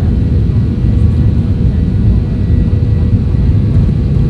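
Boeing 737-800 cabin noise: a steady, loud low rumble of the jet engines and airflow, with a faint constant whine above it.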